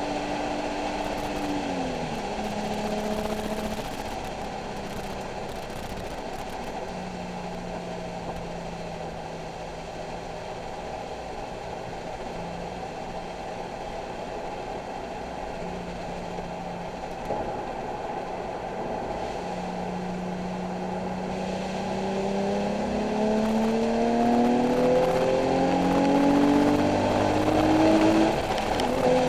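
Nissan 370Z's 3.7-litre V6 under way on track: the revs drop about two seconds in, hold low and steady for a long stretch, then climb under acceleration for the last several seconds, louder, with one drop near the end as it shifts up.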